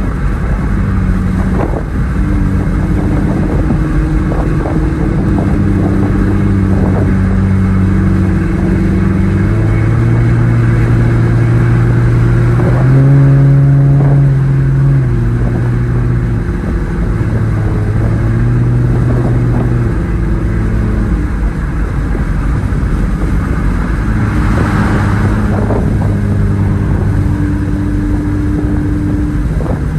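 Exhaust of an S197 Ford Mustang with a muffler delete, running steadily while driving. The engine pitch holds for a few seconds at a time, then steps up or down, and is loudest about halfway through.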